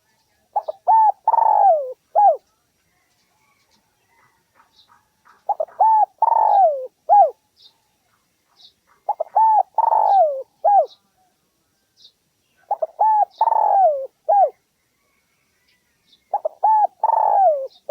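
Spotted dove cooing: five repeated coo phrases, about one every three and a half seconds. Each phrase is a few short notes, then a longer falling coo and a short final note. It is a lure call used to draw territorial male spotted doves in.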